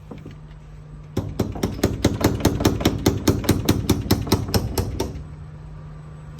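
Rapid, even hammering on a classic car under repair, about six blows a second for roughly four seconds, starting about a second in.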